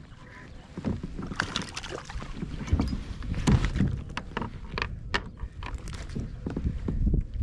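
Irregular knocks and water splashes on a kayak, with low wind rumble on the microphone.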